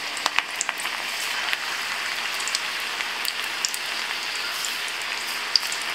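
Sweet corn pakoda batter frying in hot oil: a steady sizzle with scattered crackles and pops as small balls of batter are dropped in, the pops more frequent in the first second or so.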